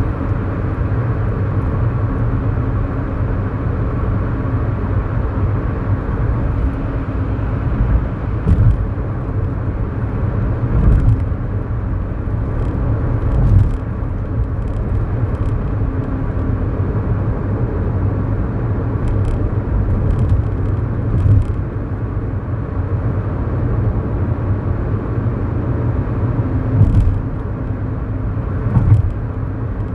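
Inside the cabin of a moving 2011 Kia Morning: its 999cc four-cylinder SOHC engine and tyre noise make a steady rumble. Brief thumps break in several times.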